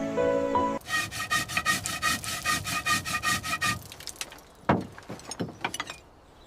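Fast, even scraping strokes, about seven a second, like a file or saw worked back and forth on metal, with a ringing tone over them. A few scattered knocks follow, one of them loud.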